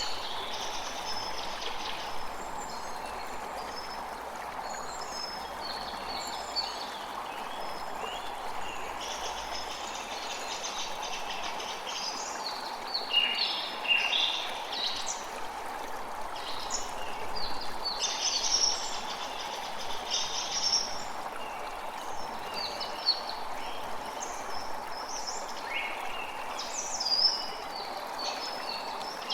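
A creek flowing steadily, with many songbirds chirping and singing over it, a few calls standing out louder now and then.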